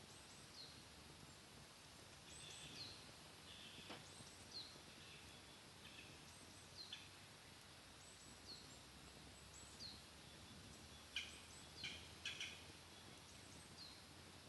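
Small wood fire crackling faintly, with a few sharp pops, most of them close together about eleven to twelve seconds in. A bird repeats a short, high, falling call every second or two.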